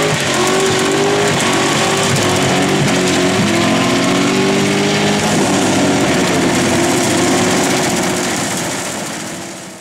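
Rally car engine at full throttle, pulling up through the gears with short dips in pitch at each upshift, then fading away near the end.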